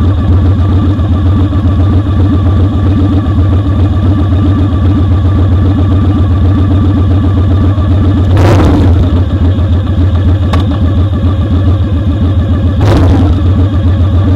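Motorcycle engine running steadily at riding speed, heard close up from a foot-peg mount. Two short rushing noises break in, about halfway through and again near the end.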